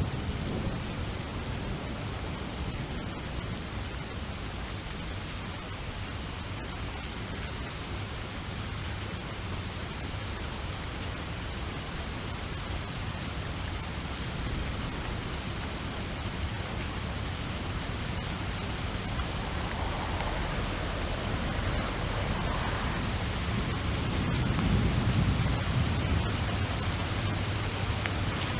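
Steady rain with an even hiss. Near the end a low rumble of thunder swells and fades.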